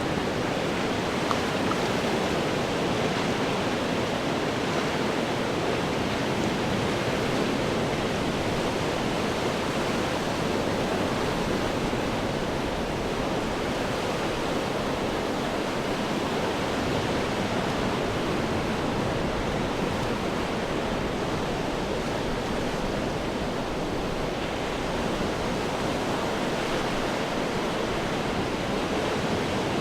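Ocean surf breaking on rocks, heard as a continuous, steady rush of water with no single crash standing out.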